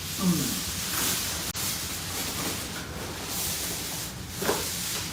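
Rustling and scraping of cardboard and styrofoam packing as a boxed digital piano is handled and unpacked, with a brief low scrape just after the start.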